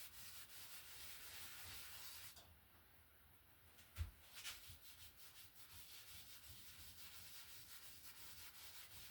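A 1-inch brush scrubbing phthalo blue in crisscross strokes over wet liquid white on canvas: a soft, scratchy swishing of quick repeated strokes. The strokes pause briefly, a light knock comes about four seconds in, and then the strokes resume.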